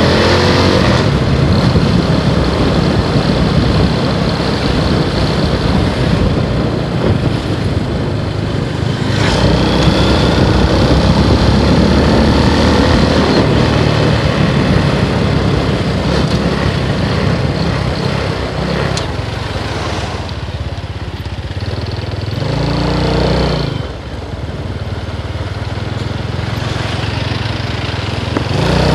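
Motorcycle engine running under way with heavy wind rush, the level easing off about two-thirds through and dipping briefly near the end.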